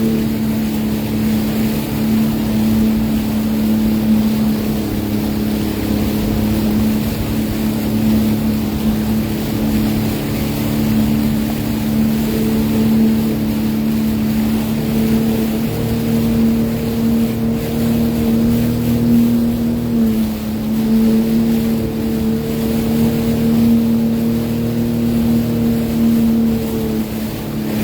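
Sea-Doo Fish Pro personal watercraft engine running at a steady speed, holding an even pitch.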